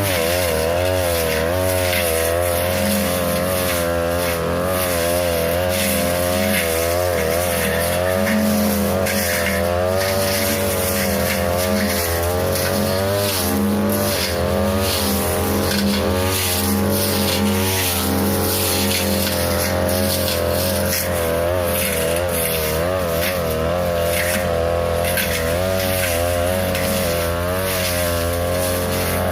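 42cc two-stroke brush cutter with a metal blade running at high revs, its engine pitch rising and falling repeatedly as it cuts through tall brush and saplings, with frequent short crackles of stems hitting the blade.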